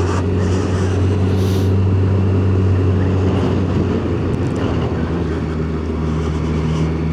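Yamaha FZ1's inline-four engine running at a steady, low, even speed, a constant low drone with road and wind noise over it.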